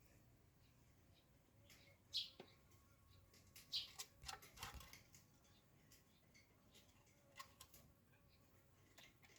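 Faint short bird chirps, two of them clearer about two and four seconds in, with scattered light clicks and ticks.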